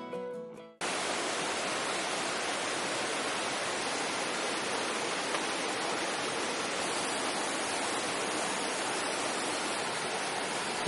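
Steady, even hiss of rushing water, starting abruptly about a second in.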